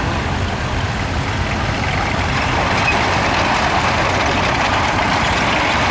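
Diesel engine of a vintage tractor running steadily at low revs, with a dense low rumble that gets a little louder from about two seconds in.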